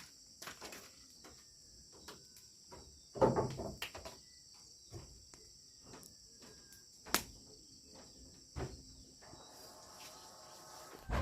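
Steady high-pitched chorus of insects, crickets by the sound, with scattered knocks and clicks of handling. A brief louder clatter comes about three seconds in, and a sharp click a few seconds later.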